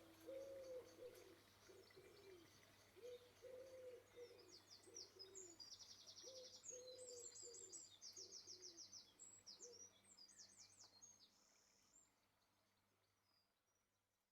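Birds calling faintly: a low cooing call repeated in short phrases, and in the middle a small bird's rapid high trills, fading out near the end.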